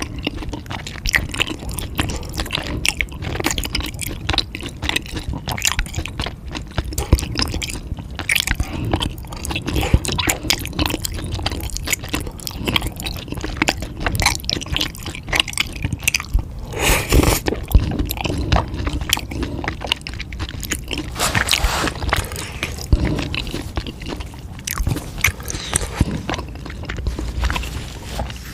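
Close-miked chewing and crunching of food, with irregular crackles, wet squishing mouth sounds and a few louder bites.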